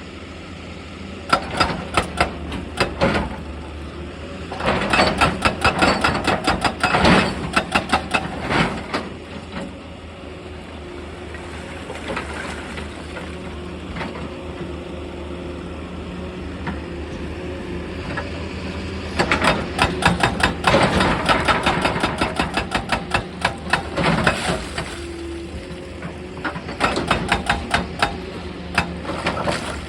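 Excavator's hydraulic rock breaker hammering stone in four bursts of rapid, evenly spaced blows, with the diesel engine running steadily between them.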